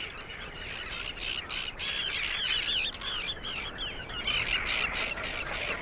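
A breeding colony of terns calling: many short, harsh, screaming calls, repeated and overlapping in a dense chorus.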